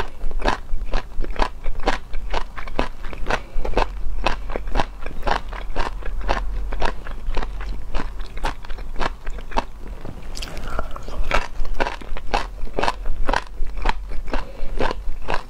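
Close-miked chewing with a sharp, wet crunch on each bite, about two to three bites a second, steady throughout.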